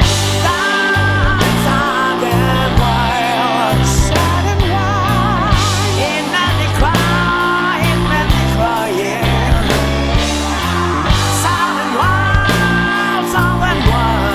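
Studio recording of a rock song: a bass line stepping between notes and drums under a lead melody with strong vibrato.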